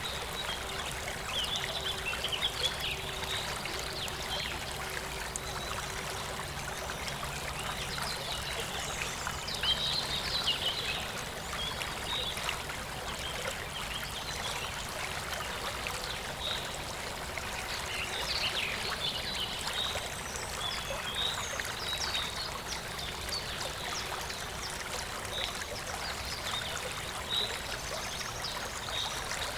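Clear rural stream flowing and trickling steadily, with scattered short bird chirps over the water.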